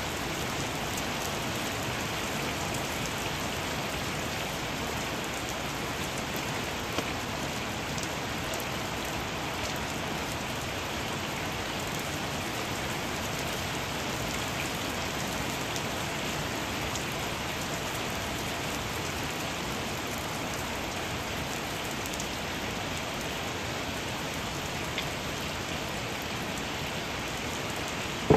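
Steady rain falling on a flooded paved driveway, the drops splashing into the standing water as an even hiss with scattered patter. A single short knock comes right at the end.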